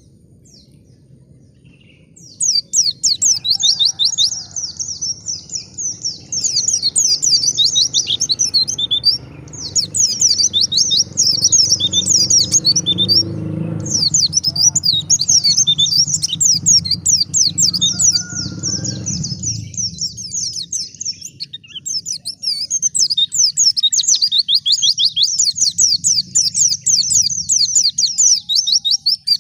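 White-eye (pleci) song: fast, high, chattering twittering trills. They start about two seconds in and run on with only brief pauses.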